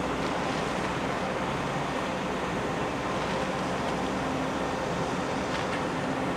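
Steady low hum of a ferry's engines under an even wash of wind and water noise.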